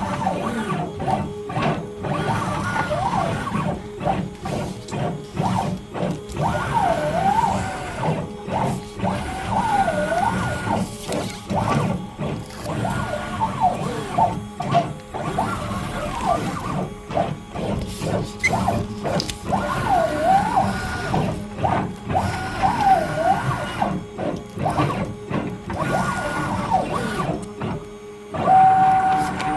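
CNC machine's stepper motors whining as they drive a drag knife through foam board; the pitch rises and falls with each curve of the toolpath, with frequent short pauses between moves. Near the end a single steady whine sets in.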